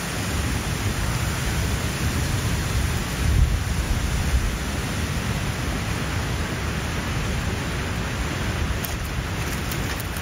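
Steady hiss of falling rain with an uneven low rumble under it, and a few faint sharp clicks near the end as sticks are laid on the small fire.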